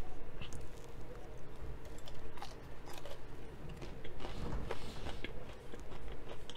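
A man biting and chewing a piece of fried chicken tender, with scattered soft crunches and mouth clicks.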